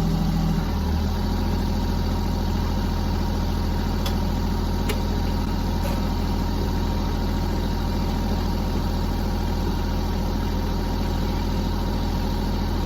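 Kubota L-series tractor's diesel engine idling steadily, with a few faint clicks a few seconds in.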